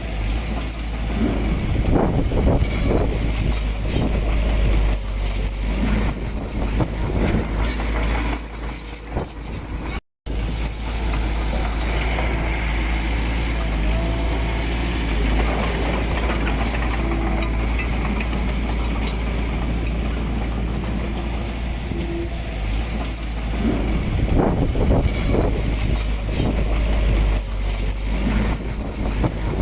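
Diesel earthmoving machinery running and working under load: a steady low engine rumble with scattered squeaks and clanks. The sound cuts out completely for a moment about ten seconds in.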